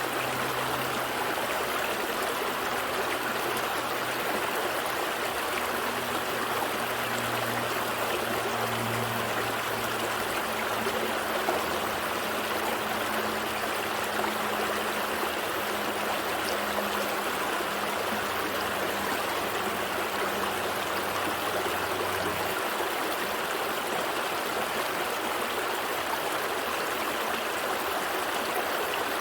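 Gentle stream flowing steadily over rocks, a constant rushing and trickling of water. A faint low hum sits under it and stops about three quarters of the way through.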